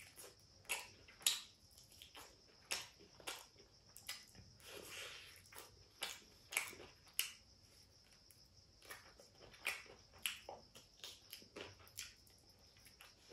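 A person biting and chewing fried chicken: irregular wet mouth clicks and smacks, a couple every second.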